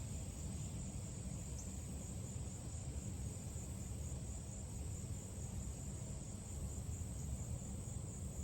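Steady high-pitched chirring of crickets over a low background rumble.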